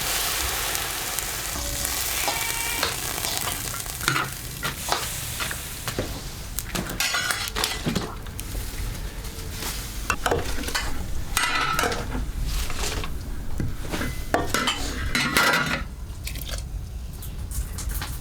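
Food sizzling in a hot pan, starting suddenly, with repeated stirring and a metal spatula scraping and clinking against the pan.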